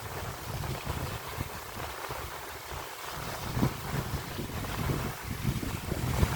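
Strong wind gusting and buffeting the microphone, an uneven low rumble that swells and drops over a steady rushing hiss.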